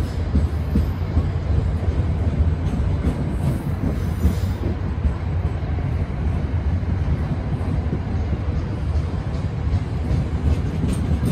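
Passenger train rolling along the tracks: a steady, loud rumble of wheels and running gear on the rails.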